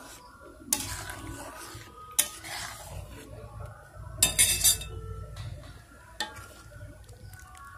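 Metal spoon stirring thick vegetable moong dal in a metal pan, scraping and clinking against the pan a few times, the loudest stroke about four and a half seconds in.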